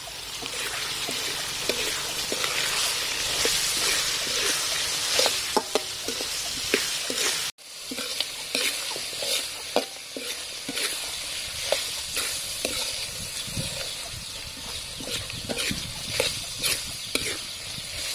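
Pieces of boiled pig's tongue frying and sizzling in hot oil with garlic and shallots in a metal wok. A metal spoon stirs them, scraping and clinking against the pan many times. The sound breaks off for a moment about halfway through.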